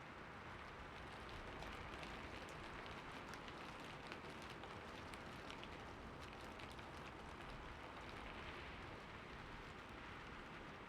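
Steady rain falling, a soft even hiss with many small drop ticks scattered through it.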